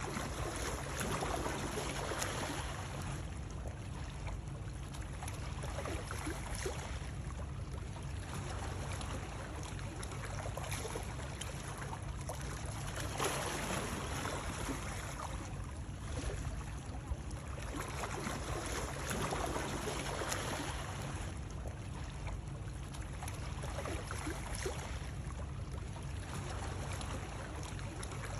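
Water sounds: splashing, lapping water that swells and eases about every six seconds, over a steady low rumble.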